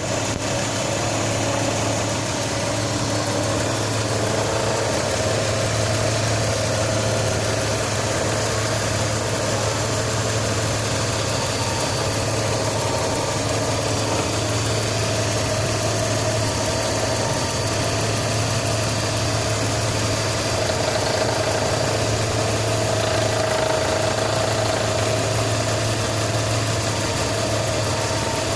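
Car engine idling steadily. The recording is made to capture an unwanted extraneous noise that the owner says has appeared again.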